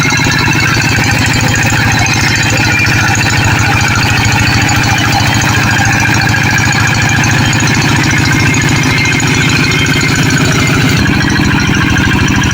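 Tractor engine running steadily and loud, with a rapid, even firing beat.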